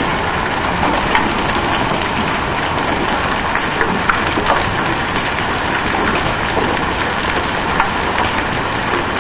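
Hail without rain pelting down: a dense, steady clatter of penny-sized hailstones striking hard surfaces, with scattered sharper single cracks from bigger stones.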